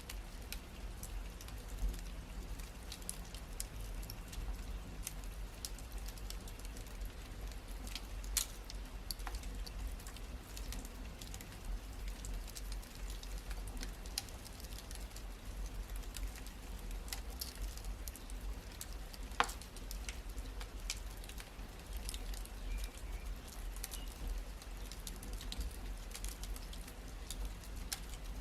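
Wood fire crackling steadily with a low rumble, scattered small snaps and a few louder pops, about 8 and 19 seconds in.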